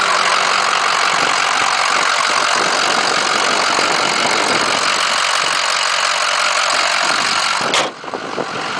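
Ford 6.0 L Power Stroke turbo-diesel V8 idling steadily. Near the end there is a sharp click, and the sound drops off abruptly.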